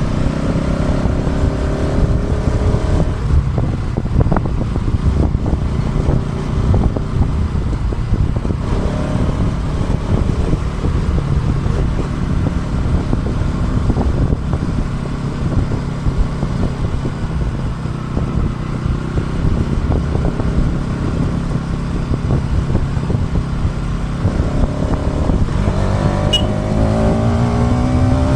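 Motorcycle engine while riding, picked up by an action camera's built-in mic under heavy low wind buffeting. The engine's pitch climbs as it accelerates in the first few seconds and again near the end.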